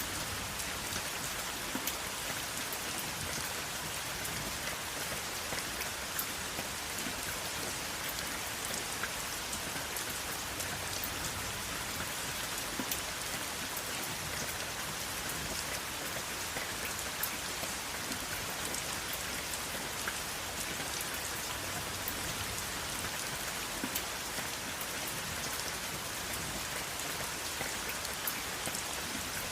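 Steady rain with no thunder: a dense, even hiss of rainfall with many individual drops pattering on a surface.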